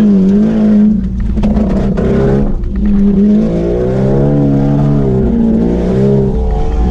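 Opel Astra II engine heard from inside the cabin, revving up and down with the throttle as the car is driven hard. Around one to two and a half seconds in, the engine note drops and a few short knocks and rattles come through.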